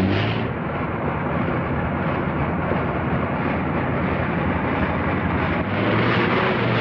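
Car engine running as the car drives, a steady rough rumble with noise across the range and no distinct knocks.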